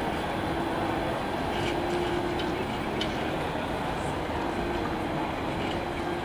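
A Metrolink M5000 tram pulling away from a station, its wheels and running gear rumbling steadily on the rails with a hum from its traction motors that comes and goes, and a few light clicks.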